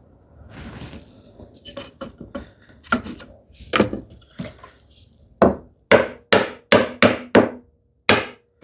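Chisel chopping down into wood along a knife line at a tenon shoulder: a series of sharp knocks, spaced out at first, then a quicker run of about six strokes in the second half.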